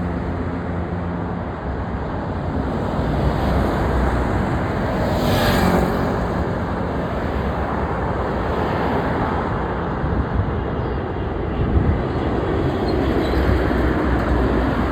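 Steady loud rushing roar of a large airplane's engines, with a brief louder whoosh about five seconds in.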